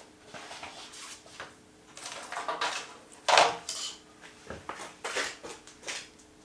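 Things being gathered up and put away by hand: a string of irregular light metallic clatters and knocks, over a faint steady hum.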